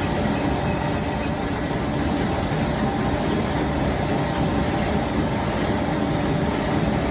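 PE plastic bag cutting machine running steadily, a dense mechanical noise with short high hisses now and then.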